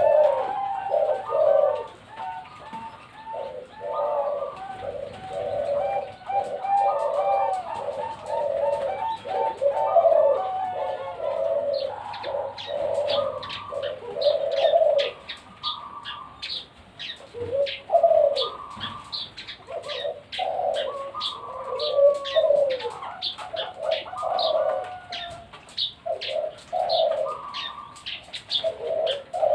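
Perkutut (zebra doves) cooing over and over, several voices overlapping in rolling phrases. From about twelve seconds in, quick high chirps join them in a steady run.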